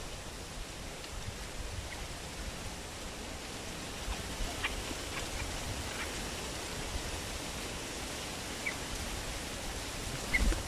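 Steady outdoor hiss with low wind rumble on the microphone. A few faint, short chirps from bulbuls come around the middle, and one more comes near the end along with a low thump.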